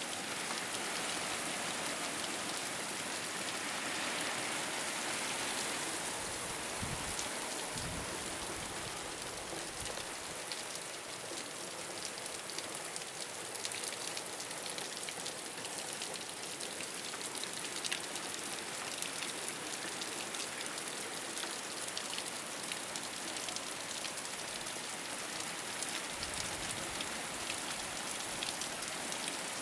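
Steady rain falling on a rooftop: an even hiss of many drops, with sharper individual drop ticks throughout and a few soft low thumps.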